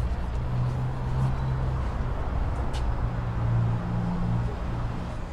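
A vehicle engine running with a steady low hum that shifts slightly in pitch, over general street noise, with one faint click about two and a half seconds in.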